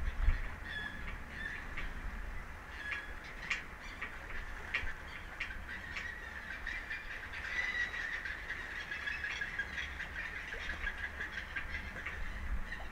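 Birds calling in a steady chatter of many short, honk-like calls, over a low rumble.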